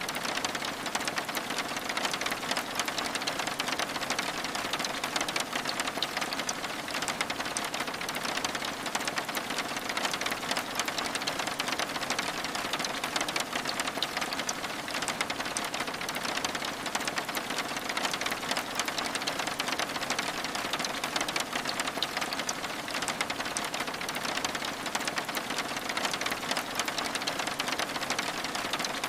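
Steady rain pattering, a dense, even patter of fine drop ticks over a soft hiss that holds the same level throughout.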